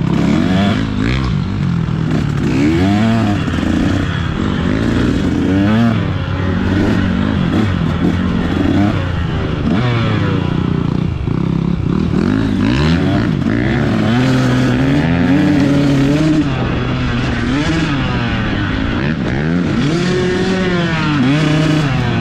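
Dirt bike engine revving up and down over and over as the throttle is opened and closed, its pitch rising and falling every second or two.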